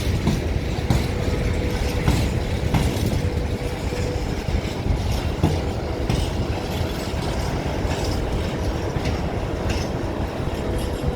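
A train passing by the track: a steady low rumble of rolling wagons with a faint steady whine and scattered wheel knocks.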